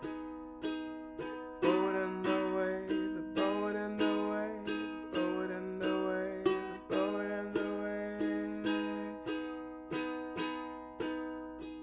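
Ukulele strummed in a steady rhythm, each strum ringing out and fading before the next, playing an instrumental passage of a song.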